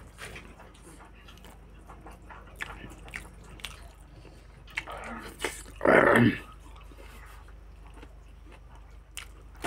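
Close-up chewing and mouth smacking of a person eating rice by hand, with small clicks as the fingers scoop food against a metal plate. About six seconds in comes one short, loud burst of sound.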